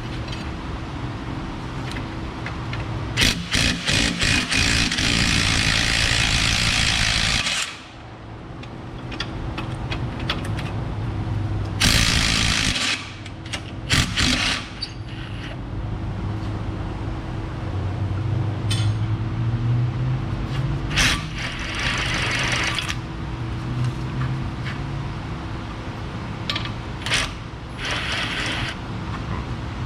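Hand and power tools working on the Jeep's suspension bolts. There is a loud, several-second burst of a power tool about three seconds in and a shorter one near the middle, with sharp metal clanks and knocks between and a steady low hum underneath.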